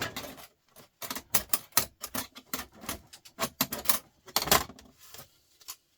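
Quick, irregular clicking and clattering of hard plastic and metal parts being handled and pulled apart while a TV/DVD unit is dismantled for scrap.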